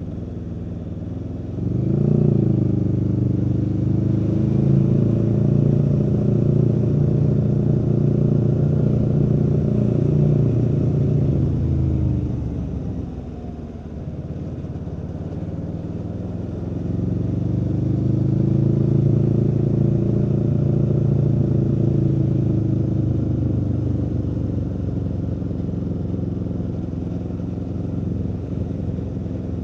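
Aprilia Tuono V4's V4 engine under way. The throttle opens about two seconds in and the engine pulls hard at a steady pitch. Around twelve seconds the throttle closes and the note falls away. It picks up again a few seconds later and eases off gradually toward the end.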